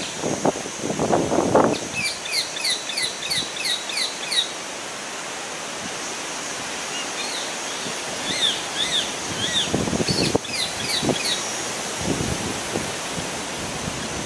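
A bird calling in quick runs of short, high, down-slurred chirps, one run about two seconds in and another near the middle, over a steady high insect hiss. Low rustling noises come near the start and again later.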